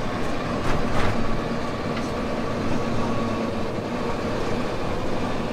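Small amusement-park train running along its track, heard from an open passenger carriage: a steady rumble with a low drone, and a couple of sharp clicks about a second in.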